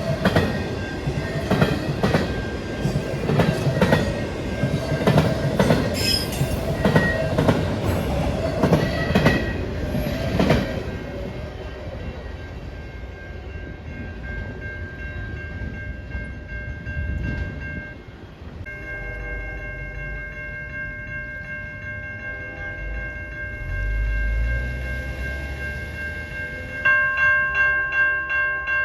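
A train rolls past with its wheels clicking steadily over the rail joints, then fades away about a third of the way in. About two-thirds in, a train horn sounds a steady chord of several tones, and near the end a louder tone starts pulsing about twice a second.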